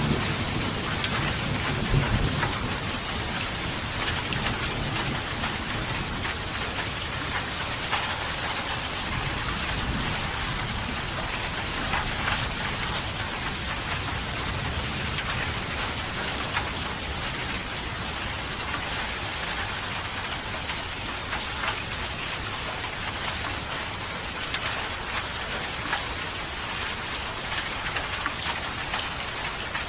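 Steady rain falling, an even hiss with scattered drop taps. A low thunder rumble trails off in the first couple of seconds.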